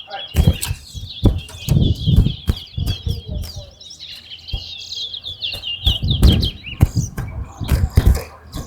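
Towa towa (chestnut-bellied seed finch) singing a long, rapid, high chirping song that stops about six and a half seconds in, the kind of song tallied in a bird race. Low rumbling and thuds run underneath.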